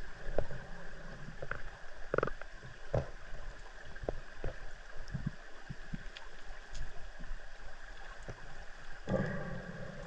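Underwater river sound heard through an underwater drone: a steady hum and hiss with irregular clicks and knocks, the loudest about two seconds in and about nine seconds in.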